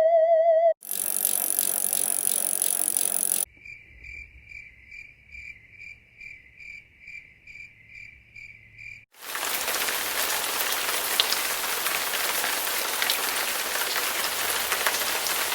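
A string of short natural-sounding clips: first a high, hissing buzz, then a regular pitched chirp about twice a second, then a steady even hiss. The last moment of a wavering musical tone ends under a second in.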